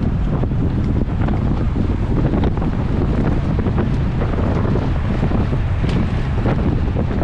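Heavy wind buffeting on an on-board camera's microphone on a bicycle racing at speed: a loud, steady low rumble with faint scattered ticks.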